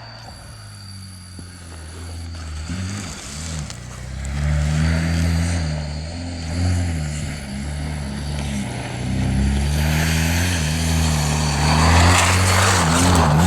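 Rally-raid competition vehicle's engine running hard, its revs rising and falling repeatedly as it grows louder. A rush of tyre and spray noise builds toward the end.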